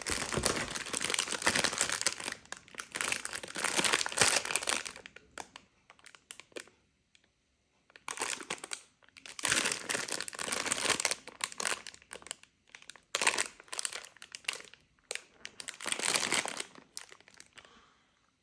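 Packaging crinkling and rustling as a replacement coffee-machine water filter is unwrapped, in several handling spells with short pauses between.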